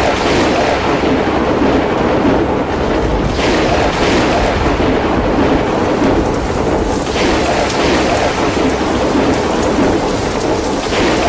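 Heavy rain with a continuous low thunder rumble, the rain hiss swelling in a repeating surge about every four seconds.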